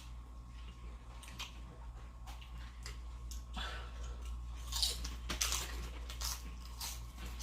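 Close-up mukbang eating sounds: biting into and chewing grilled sausages, with irregular wet smacks and small clicks.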